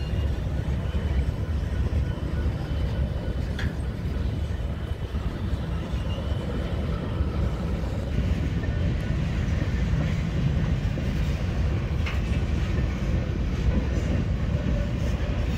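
Freight train rolling past, a steady rumble of cars on the rails, with heavy wind rumble on the microphone.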